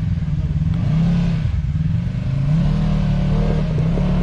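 Side-by-side UTV engine working over rocks, its speed rising and falling several times as the throttle is worked, with some light clattering in the second half.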